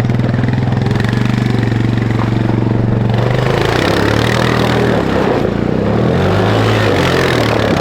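A go-kart's 400cc snowmobile engine running, steady at first, then rising and falling in pitch from about four seconds in as the throttle changes.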